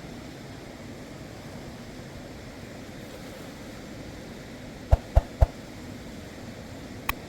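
Steady rush of a river's flowing water, with three sharp knocks in quick succession about five seconds in and another just before the end.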